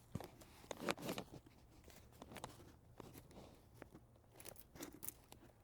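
Footsteps crunching and crackling through dry leaf litter and twigs, uneven, with the loudest crunches about a second in.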